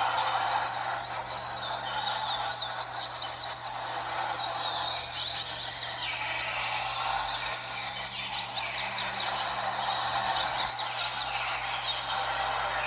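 Several double-collared seedeaters (coleiros) singing at once in a tournament circle: a dense, overlapping chorus of quick, high, down-slurred song phrases, over steady background noise and a low hum.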